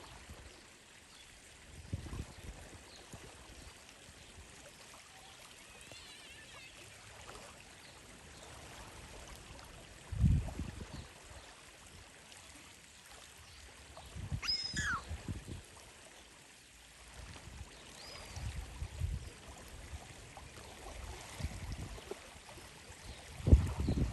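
Water trickling and splashing, with low thumps now and then and a few short bird calls, the clearest about halfway through.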